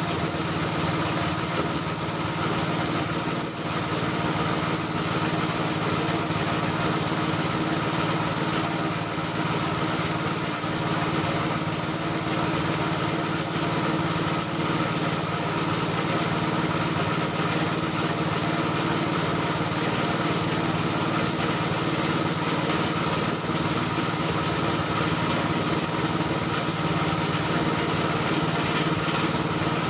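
Spray-painting equipment running steadily: a constant motor hum from an air compressor under a continuous hiss of air.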